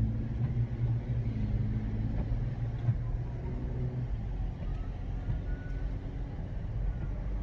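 Car cabin road noise: a steady low drone of engine and tyres heard from inside the moving car.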